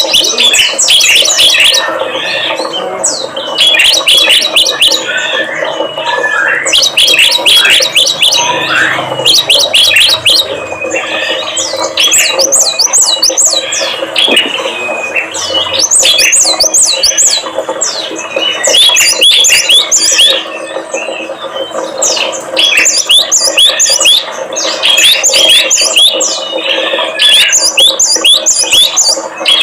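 Small cage songbirds chirping and chattering in dense, rapid strings of sharp high notes with short pauses, over a steady low hum: a lure recording meant to set caged birds singing.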